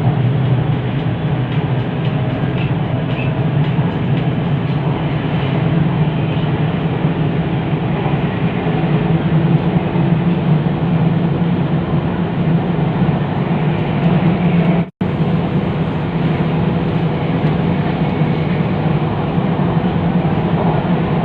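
Inside a metro train carriage running between stations: a steady loud rumble with a low drone from the running gear and motors. The sound cuts out for an instant about three-quarters of the way through.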